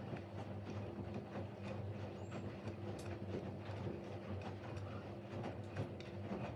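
Siemens Siwamat Plus 574 front-loading washing machine in its rinse cycle: a steady motor hum with scattered clicks and knocks as the drum turns the wet laundry.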